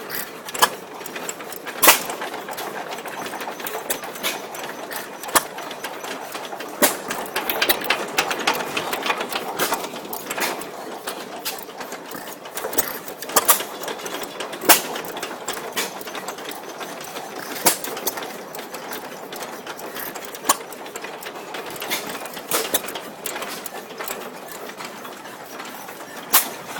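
Small 1.5 horsepower air-cooled Waterloo-built hit-and-miss gas engine running: a steady mechanical clatter broken by sharp firing knocks at irregular intervals, a second or several apart.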